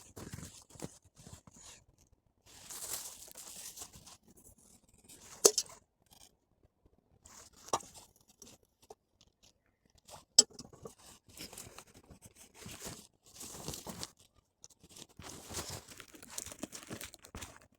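Irregular crunching and rustling in short patches, with two sharp snaps about five seconds apart.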